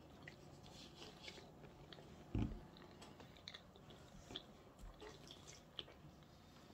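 Faint mouth noises of a person chewing a mouthful of banana, with scattered small wet clicks. There is one louder low thump about two and a half seconds in.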